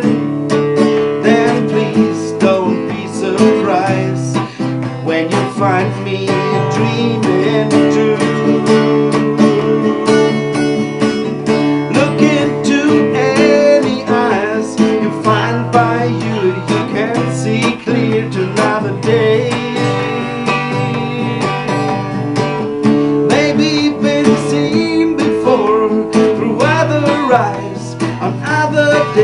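Acoustic guitar strummed steadily in a live solo performance, an instrumental passage between sung lines.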